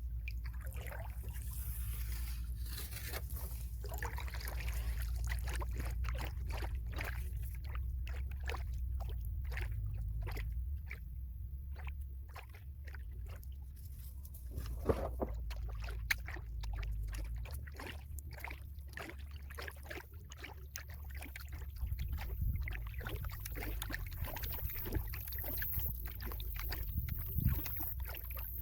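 Kayak paddle working in shallow river water: many small splashes and drips as the blades dip and lift, over a steady low rumble.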